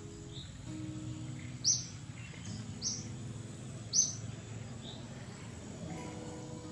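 Birds chirping: a handful of short, high chirps, each a quick downward sweep, two of them much louder than the rest, over a steady outdoor hiss. Faint held low notes sound underneath.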